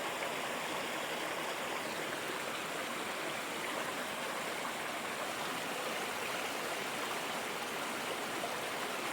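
River water flowing steadily, a constant even sound of moving water with no breaks.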